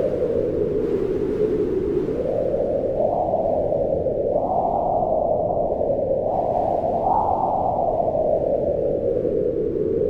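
Wind howling as a steady low rush, its pitch swelling up and sinking back in slow gusts, rising through the middle and falling away near the end.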